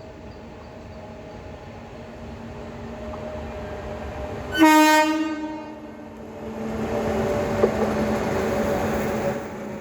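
Passenger train's horn gives one short, loud blast about halfway through, over the running noise of the train. Near the end the train's running noise grows louder for a few seconds, then drops off suddenly.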